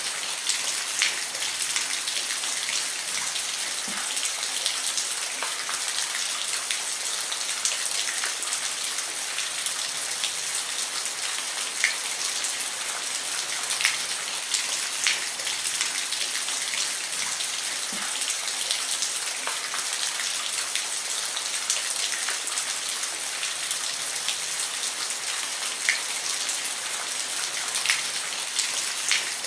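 Steady rain falling on a roof: a dense, even hiss with scattered louder drop ticks.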